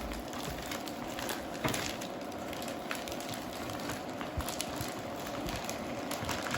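Crinkling and rustling of a plastic vacuum-sealer bag being handled, with scattered light clicks, over a faint steady hum.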